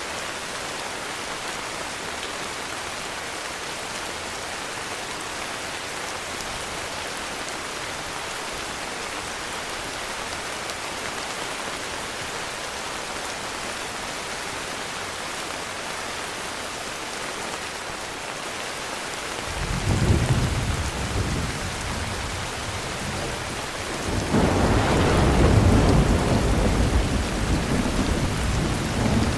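Heavy rain falling steadily. Thunder rumbles in twice: once about two-thirds of the way in, and again more loudly near the end, where it rolls on.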